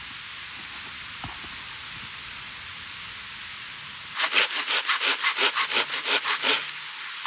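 A steady hiss, then about four seconds in a hand saw cuts through wood in about a dozen quick back-and-forth strokes, roughly five a second, which stop abruptly after a couple of seconds.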